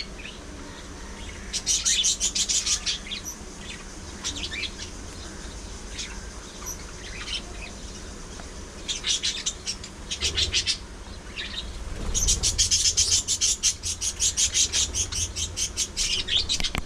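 Budgerigars chirping and warbling in fast trains of short high notes, in bouts with a long busy run in the last few seconds.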